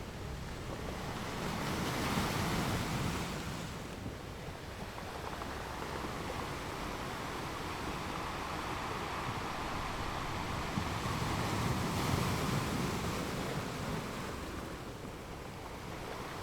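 Ocean surf washing onto a beach, a steady rush of water that swells a couple of seconds in, surges again for several seconds in the middle, and eases off near the end.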